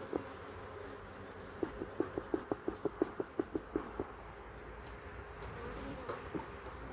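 Honeybees buzzing around an open hive: a steady hum, with a quick run of about a dozen pulsing buzzes, five or six a second, a couple of seconds in.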